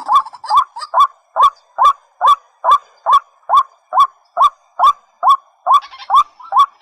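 A rail calling over and over in short rising notes, about two and a half a second, each with a bright upper ring. A fainter, higher-pitched chatter joins near the end.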